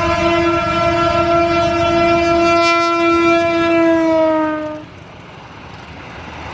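Train horn of the Putri Deli train sounding one long, steady blast that sags slightly in pitch and cuts off about five seconds in, leaving a quieter rumble.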